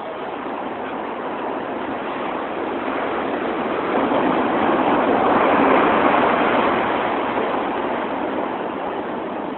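Heavy storm surf breaking on the shore: a steady rush of water that swells to its loudest a little past the middle as a wave crashes, then eases off.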